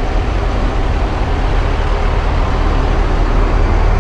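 Wind rushing over the microphone of a camera riding on a moving bicycle: a loud, steady rumble with hiss.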